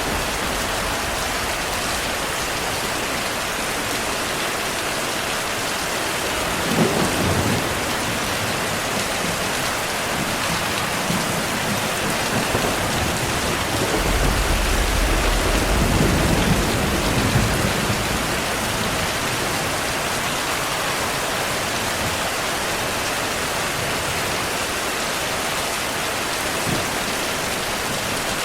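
Steady rain hissing, with thunder: a sharp clap about a quarter of the way in and a longer low rumble around the middle.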